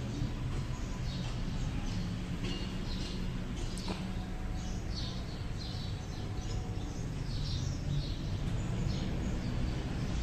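Small birds chirping again and again in short high calls over a steady low background rumble, with a single click about four seconds in.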